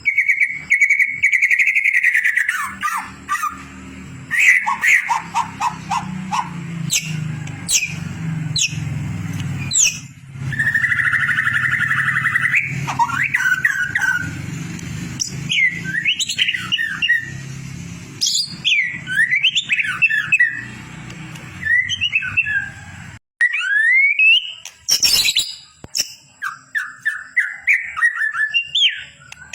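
White-rumped shama (murai batu) singing a long, varied song of clear sweeping whistles, rapid trills and sharp chirps. A steady low hum sits under the song for about the first two-thirds and then stops.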